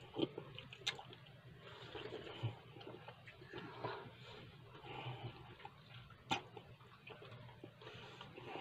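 Quiet closed-mouth chewing of ham on bread, with wet mouth smacks and small clicks; two sharper clicks come about a second in and past six seconds.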